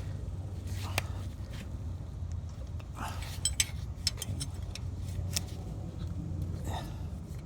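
Scattered sharp metallic clicks and clinks of hand tools, a ratchet and socket working on the bolts.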